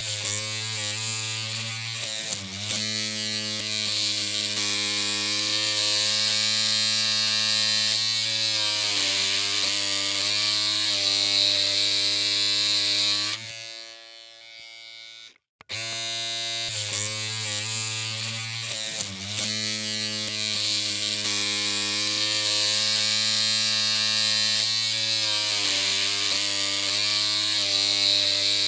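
Electric hair clippers running with a steady buzzing hum and a bright hiss over it, the pitch wavering slightly now and then. About 13 seconds in the hum fades and stops, and it starts again roughly two seconds later.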